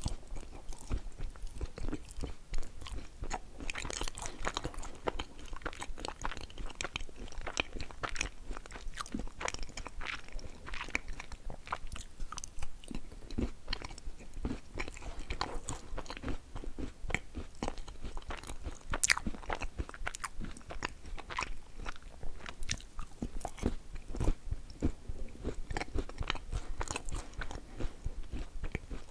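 Halva being bitten and chewed right at the microphone: a dense run of crumbly crunching and mouth sounds, with a few sharper crunches.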